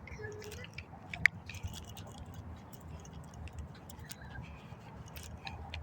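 Footsteps on dry ground and leaves: scattered light crackles and ticks, with one sharper snap about a second in.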